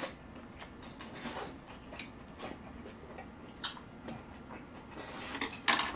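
Close mouth sounds of a person eating stir-fried kimchi and pork: scattered wet clicks and smacks of chewing, with a short breathy rush near the end.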